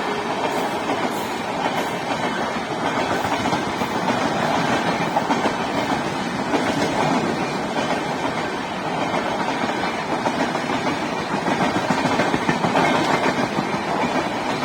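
Rajdhani Express passenger train running along the track: a steady, continuous rumble of wheels on rails.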